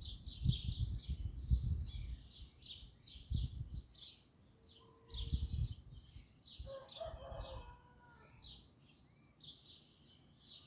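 Small birds chirping and calling continuously in quick high-pitched notes. A single lower, harmonic call about a second long sounds near the middle, and a low rumble comes and goes in the first half.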